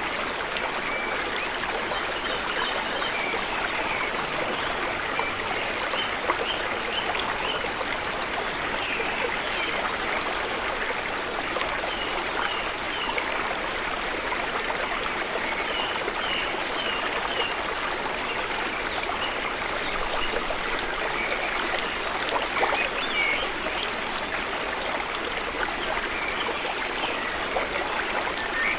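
River water flowing steadily over stones, an even rushing and trickling, with short high chirps now and then.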